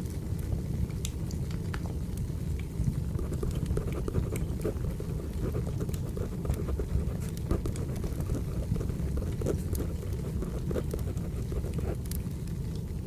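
Wood fire crackling: a steady low rumble of burning logs with scattered sharp pops and snaps, mixed with the scratch of a pencil writing on paper.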